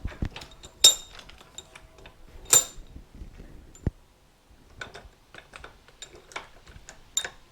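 Small metal hardware, washers and nuts, clinking and tapping as it is handled and fitted on motorcycle fork assembly. Two sharper, ringing metallic clinks come about one and two and a half seconds in.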